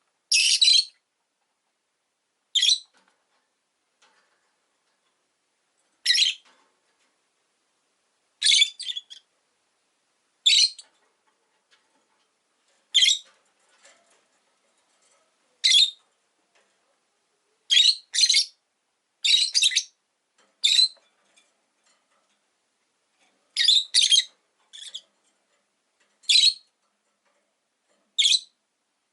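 Rosy-faced lovebirds giving short, shrill chirps, one or two at a time every couple of seconds, with quiet gaps between.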